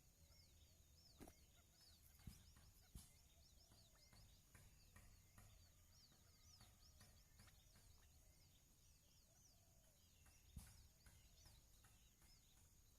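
Faint, rapid high peeping of buttonquail chicks, short rising-and-falling chirps repeating a few times a second, with a few soft knocks.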